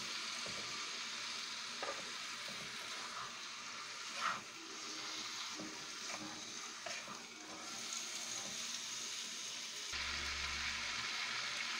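Marinated chicken pieces sizzling in hot oil in a wok while a wooden spatula stirs and scrapes them around the pan, with one louder knock about four seconds in.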